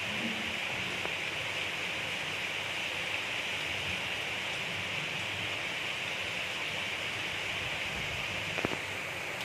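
Steady gentle rain falling, an even hiss, with one sharp drip or tap near the end.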